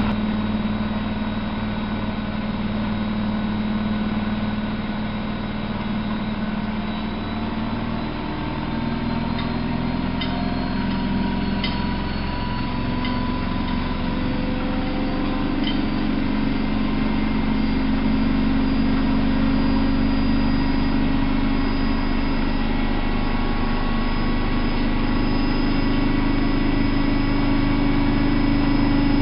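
Miele Novo Super W933 washing machine running, its motor giving a steady hum whose pitch steps up partway through and grows slightly louder toward the end, with a few faint ticks.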